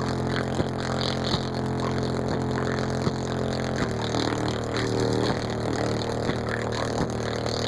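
Car audio system's four Fi BL 15-inch subwoofers in a walled enclosure playing heavy bass: held low bass notes under a beat that hits about every three quarters of a second, the bass note changing about four seconds in.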